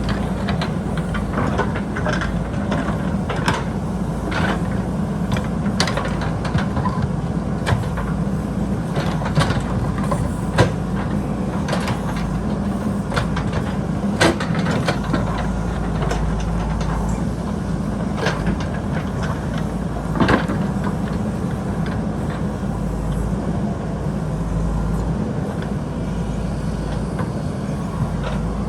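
JCB backhoe loader's diesel engine running steadily under work, with frequent sharp knocks and clanks.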